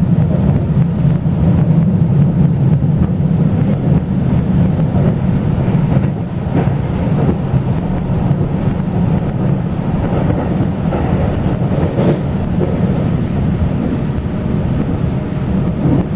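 Taiwan Railway local express train running, heard from inside the passenger car: a steady low rumble with a few faint knocks along the way.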